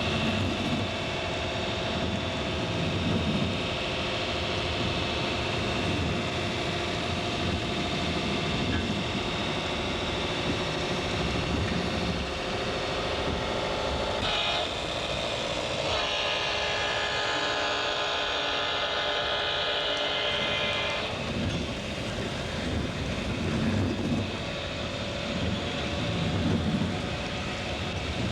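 Train running steadily, with a multi-note train horn blowing for about six seconds midway.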